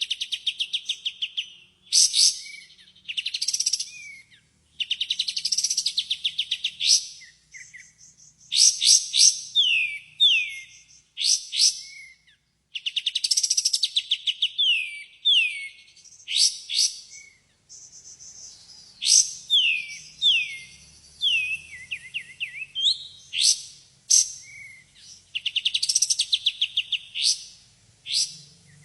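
Kapas tembak (pied triller) song played as a lure recording. It comes in rapid, chattering trills and repeated falling whistled notes, with phrases in quick bursts separated by short pauses.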